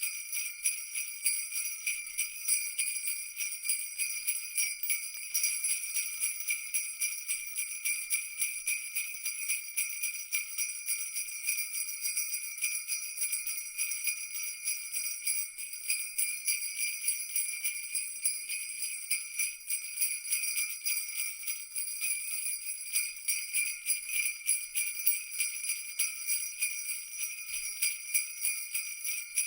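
Jingle bells shaken continuously, a dense, steady, high-pitched jingling with no low sound beneath it.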